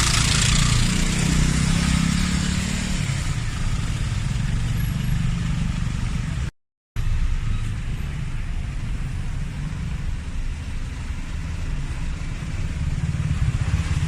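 Street traffic, with motorbike and car engines running past in a steady rumble and hiss. It cuts out briefly about halfway through.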